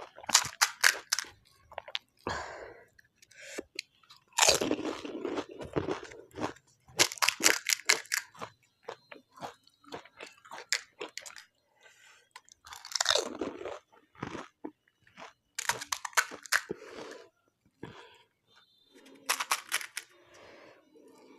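Close-up crunching and chewing of crisp panipuri shells, in about six loud bursts of bites with quieter chewing between them.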